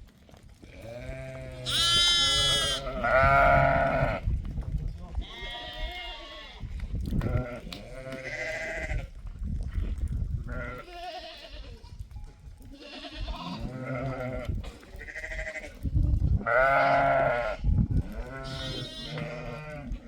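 A flock of sheep and goats bleating, many animals calling one over another, with loud calls about two seconds in, around three to four seconds, and again near sixteen seconds.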